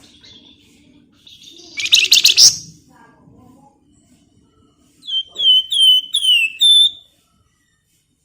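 Flamboyan songbird calling: a short, loud, rapid harsh chatter about two seconds in, then a run of five clear downslurred whistles a few seconds later.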